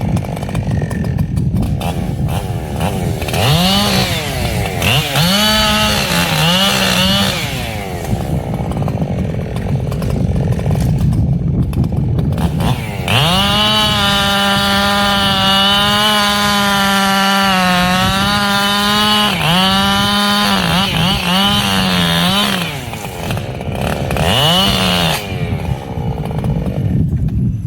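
Echo CS-7310 two-stroke chainsaw revved in short bursts, then held at full throttle for about nine seconds, its pitch sagging now and then under load as it cuts through wood. It drops back to lower revs between cuts.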